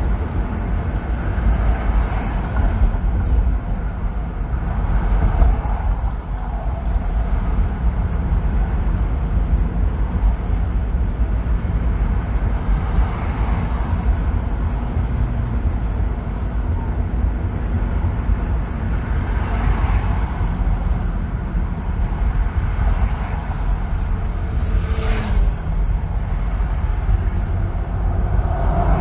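Steady road noise of a car driving on a freeway: a continuous low rumble, with several brief louder swells.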